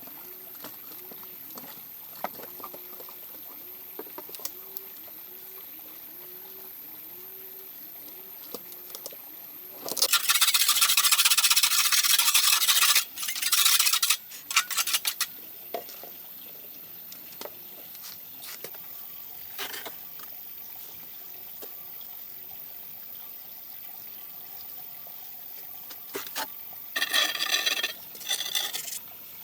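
Water being poured and wet cement mix stirred, in two loud noisy stretches: one of about four seconds a third of the way in, and a shorter one near the end.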